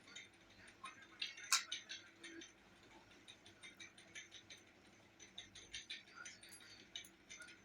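Faint, irregular small clicks and ticks, with one sharper click about a second and a half in.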